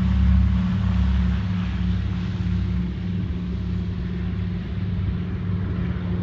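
B-25 Mitchell bomber's twin radial piston engines droning overhead as it flies its circuit, easing off slightly as it moves away.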